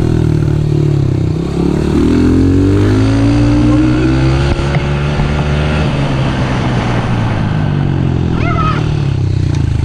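Small off-road vehicle's engine running close by, revving up from about a second and a half in and easing back down a couple of seconds later, then holding steady. A short high-pitched warbling sound cuts in near the end.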